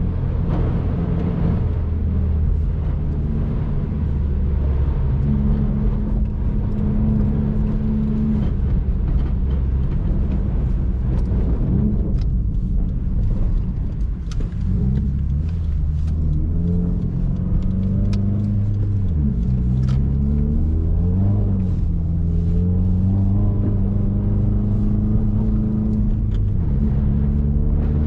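2019 Subaru WRX's turbocharged flat-four engine under way, heard from inside the cabin, its pitch holding steady, dropping and climbing again several times with throttle and gear changes over a steady low road rumble.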